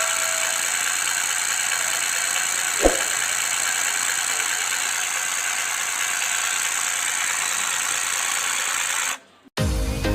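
Small DC motor running steadily with a high-pitched whir, with a single sharp click about three seconds in. It cuts off suddenly near the end.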